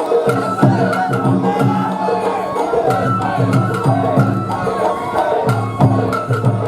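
Sawara-bayashi festival music played on a float: a wavering bamboo flute melody over struck taiko drums and a small hand gong.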